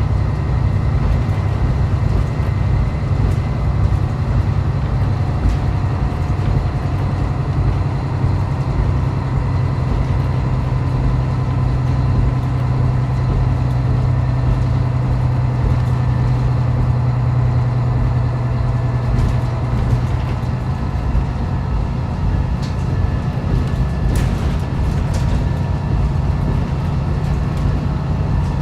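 Onboard running sound of a diesel railcar on the line: a steady low engine drone under rail and wheel noise, with a few faint clicks in the second half.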